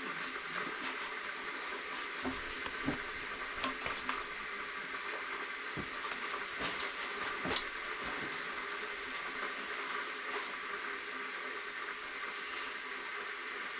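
Wood fire burning in a fireplace: a steady hiss with scattered crackles and pops, the sharpest pop about halfway through.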